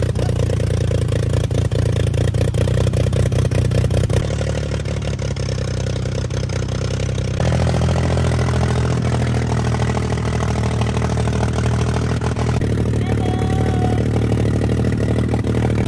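Off-road vehicle engines running during a ride, a steady mechanical drone with a fast firing rattle, changing abruptly three times.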